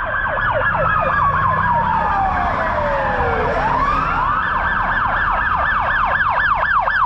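Emergency vehicle sirens, more than one at once: a fast yelp sweeping up and down about four times a second, over a slow wail that falls in pitch and then starts rising again about four seconds in. A low engine rumble runs underneath.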